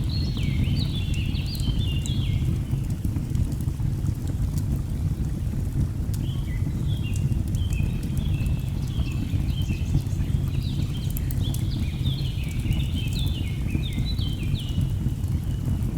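Steady low rush of a waterfall with a bird chirping in quick runs of short falling notes, one run at the start and a longer one from about six seconds in, over faint scattered crackles of burning logs.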